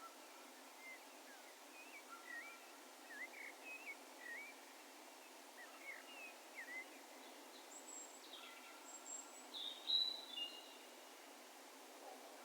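Distant birds calling over a faint steady background hiss: a run of short, quick chirping notes for the first several seconds, then higher, thinner calls, the loudest about ten seconds in.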